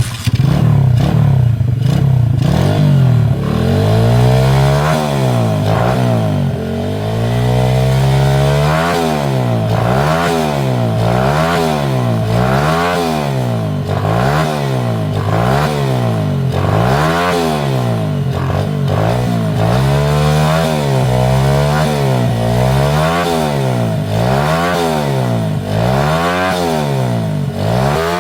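RAFF 125cc pit bike's single-cylinder engine running and being revved, the throttle blipped up and down about once a second after a steadier first few seconds.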